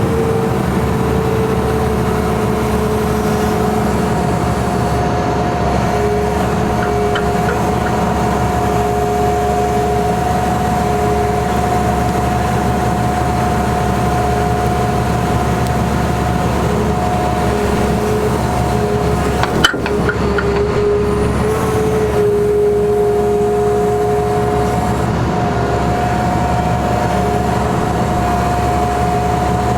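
Caterpillar 336E hydraulic excavator running steadily at work, its diesel engine holding a constant note with two steady whining tones above it. There is a single sharp knock about twenty seconds in.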